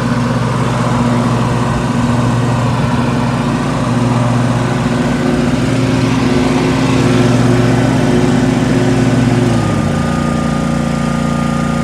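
Lawn mower engine running steadily at speed, its pitch dropping a little near the end.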